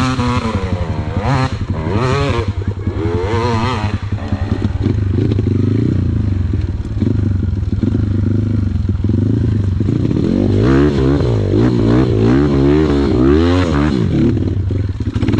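Dirt bike engine revved up and down over and over, working hard, with the revving busiest in the last few seconds before it cuts off sharply at the end.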